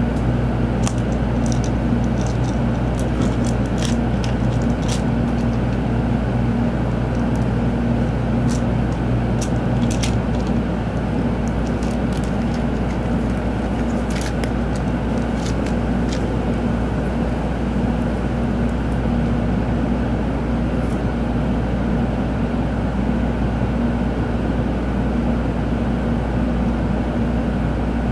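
Cabin noise inside a Tōkaidō Shinkansen train: a steady rumble and hum, with scattered light clicks over the first half. A lower hum drops out about ten seconds in.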